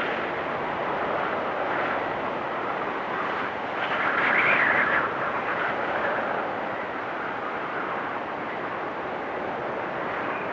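Blizzard wind blowing steadily through trees, swelling into a stronger gust about four seconds in that eases about a second later.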